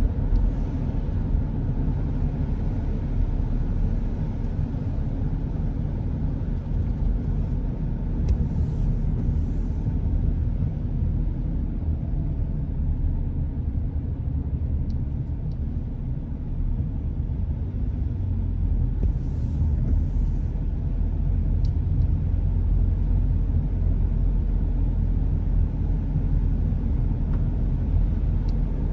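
Car driving on a wet road, heard from inside: a steady low rumble of road and engine noise, with two faint brief hisses.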